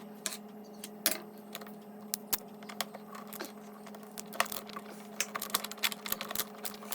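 Irregular light clicks and taps of hard plastic parts and a screwdriver being handled while an ice maker's housing is screwed back together, over a steady low hum.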